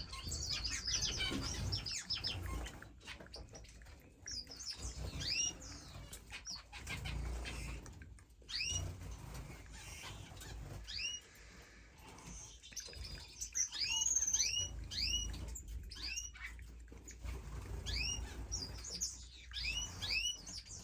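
Finches chirping: many short, hooked calls, often in quick runs of three or four.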